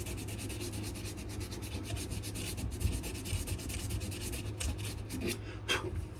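Sandpaper rubbed rapidly back and forth over a wooden knife handle of wenge and maple, in quick even strokes that thin out to a few separate strokes near the end.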